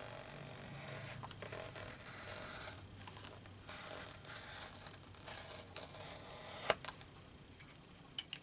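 Scissors cutting through a paper page in a series of strokes, followed by a few sharp clicks in the second half.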